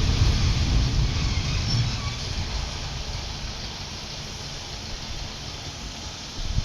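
Diesel passenger train running by, its low rumble fading over the first few seconds to a steadier, quieter noise.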